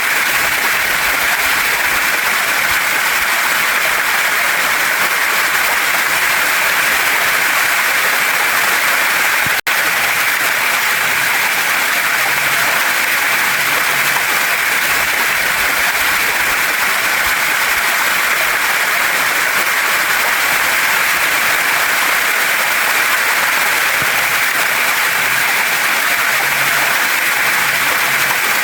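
Waterfall and mountain stream water rushing steadily over rocks, a constant even hiss, broken once by a momentary dropout about ten seconds in.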